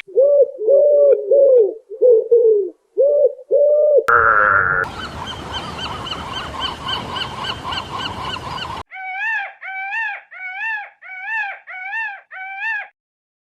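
Farm animal calls from several clips in a row: first a run of short honks, then a dense chorus of many overlapping chirps, then seven short rising-and-falling cries.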